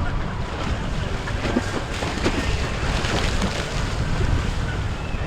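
Wind buffeting the microphone with a steady low rumble, over the wash of waves and passing boat motors.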